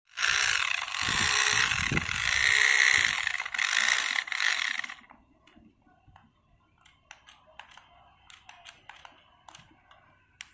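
Loud rustling and handling noise with a few low thumps, stopping about five seconds in; then faint scattered clicks and taps.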